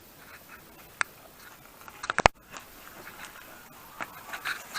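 A few sharp clicks over a faint background: one about a second in, then a quick cluster of clicks and crackles about two seconds in.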